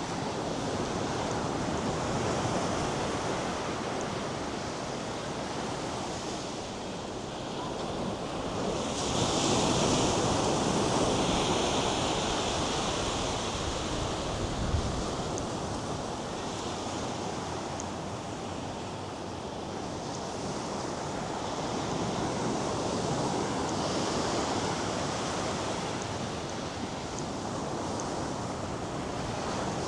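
North Sea surf breaking and washing up the sand: a steady rush that swells and eases, loudest about ten seconds in, with a single brief thump about fifteen seconds in.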